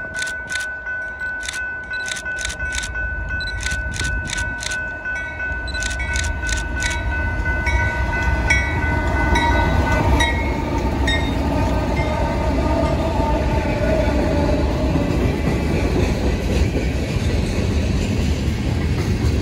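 A freight train led by Norfolk Southern diesel locomotives approaches and passes close by. Its rumble and wheel noise swell to full loudness about halfway through and carry on as the freight cars roll past. In the first half a rapid run of sharp clangs sounds over a steady high tone, stopping about halfway.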